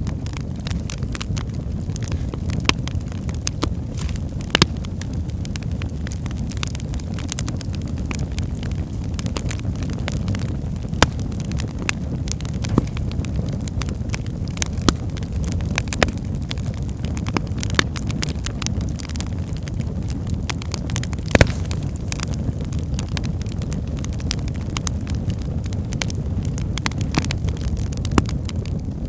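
Wood fire burning in a fireplace: a steady low rumble with frequent irregular crackles and pops of the burning logs, a few sharper pops standing out.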